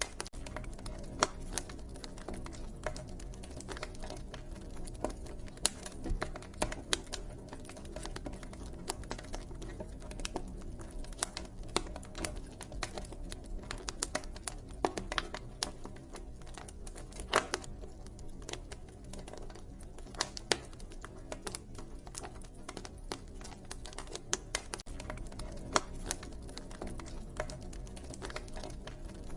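Wood fire crackling, with irregular sharp pops over a steady low background.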